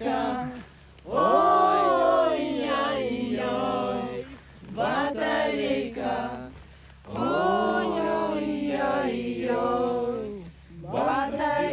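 Several voices singing a Russian pop song together without accompaniment, in long drawn-out phrases with short breaks between them.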